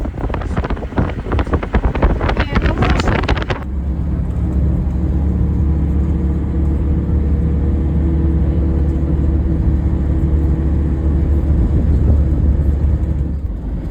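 Wind buffeting the microphone in rough gusts, then, after a sudden cut about three and a half seconds in, a vehicle engine running steadily with a low, even drone.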